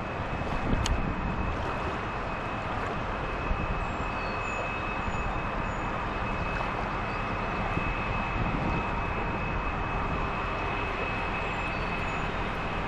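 Steady rushing of flowing river water over a shoal, an even, unbroken noise.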